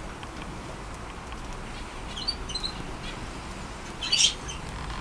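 Budgerigars chirping: a few short chirps in the middle and a louder burst of chirping about four seconds in.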